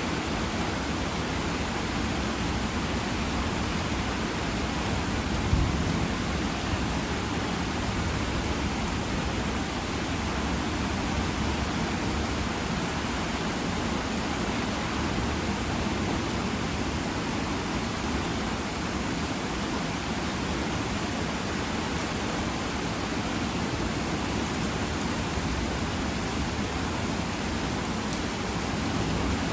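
Steady heavy rain, an even hiss throughout, with one brief low thump about six seconds in.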